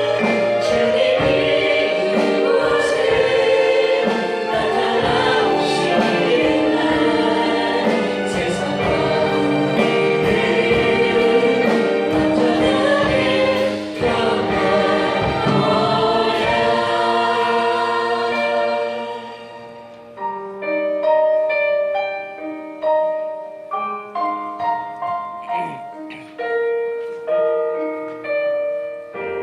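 Church choir singing a praise song in full voice with instrumental accompaniment. About two-thirds of the way through the singing stops and a piano plays on alone in single struck notes.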